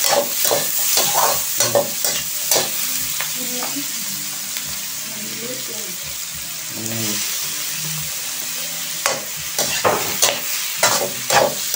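Garlic, onion, ginger and shrimp sizzling in hot oil in a metal wok, with a metal spatula scraping and clanking against the pan. The clanks come thick during the first few seconds and again near the end, with steady sizzling in between.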